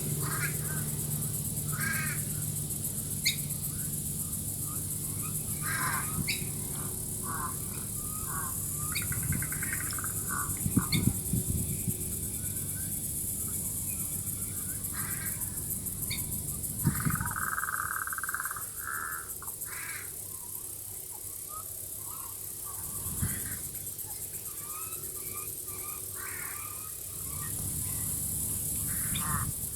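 Outdoor Australian bush chorus: various birds calling, among them a crow's cawing, over a steady high insect drone from cicadas. A low steady hum lies beneath for most of it.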